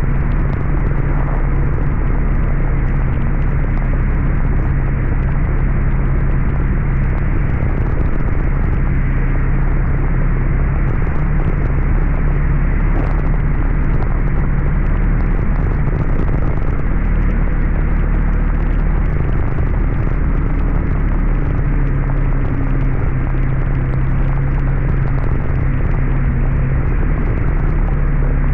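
Heavy rain pouring down steadily as one dense, even hiss, with a steady low hum underneath.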